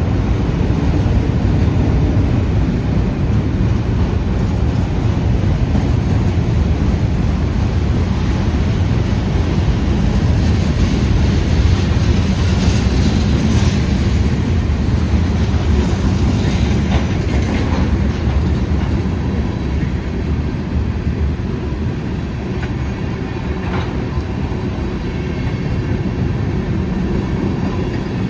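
Freight train rolling past with a steady, loud low rumble and wheel clatter; a higher-pitched screech rises over it about halfway through.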